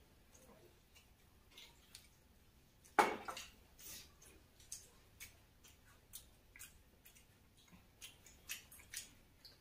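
A crunchy bite into toasted bread pizza about three seconds in, the loudest sound, followed by chewing with short crisp crunches about twice a second.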